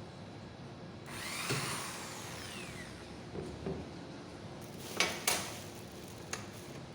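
Electric drill run in a short burst of about two seconds, boring a hole in cardboard; its pitch falls as the bit spins down. A few sharp clicks follow near the end.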